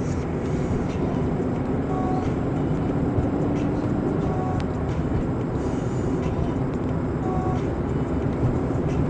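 Steady rumbling road and engine noise of a moving car, as picked up by a dashcam-style recording, with a faint short two-note tone heard about three times.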